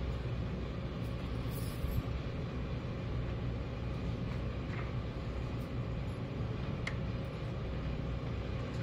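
Steady low rumble with a faint steady hum and a few light clicks.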